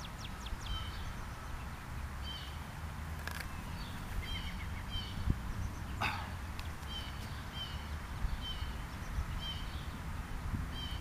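A bird chirping over and over, short high calls about once a second, over a low steady rumble. A sharp click about six seconds in.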